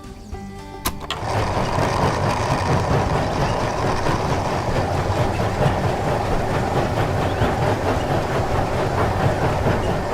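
A small machine's motor runs steadily and loudly, starting with a click about a second in.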